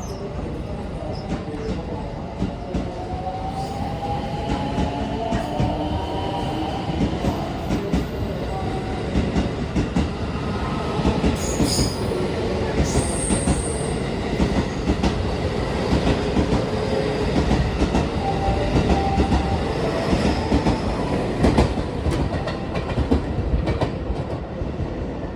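JR West 223 series electric multiple unit pulling out of the platform: a continuous rail rumble with wheels clicking over rail joints and a faint motor whine gliding in pitch. It grows louder as it gets going and eases off near the end.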